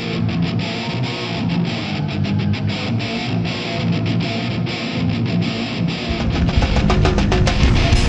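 Heavy hardcore band playing live, led by distorted electric guitar. About six seconds in, a heavy low end of bass and drums comes in and the music gets louder.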